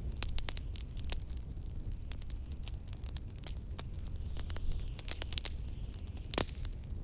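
Wood fire crackling with frequent sharp pops and one louder pop about six seconds in, over a steady low rumble of blizzard wind.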